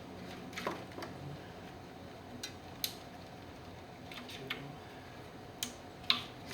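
Scattered sharp clicks and light taps of hands working a Nissan 280ZX Turbo ECU loose from its wiring-harness connector, the loudest click about six seconds in.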